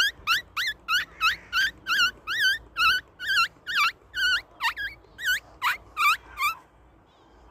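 A squeaker worked rapidly as a lure for buzzards, making a run of short, high squeaks at about three a second that stops about six and a half seconds in.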